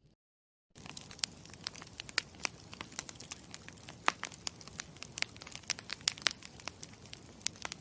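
Campfire crackling: irregular sharp pops and snaps over a low steady rumble. It starts from dead silence about three-quarters of a second in and cuts off abruptly at the very end.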